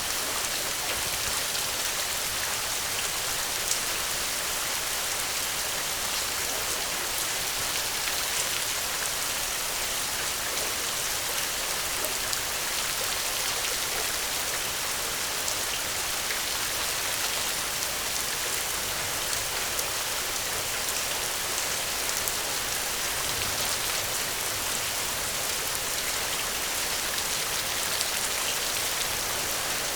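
Steady rain: a dense, even hiss with scattered small ticks of drops.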